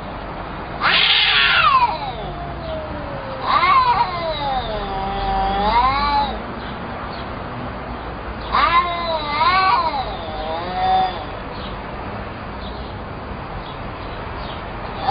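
Domestic cat yowling: four long, wavering calls that bend up and down in pitch, the longest lasting over two seconds.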